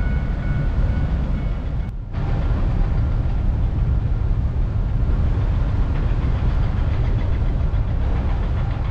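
Ferry's engines and machinery running: a steady low rumble, broken by a brief dip about two seconds in.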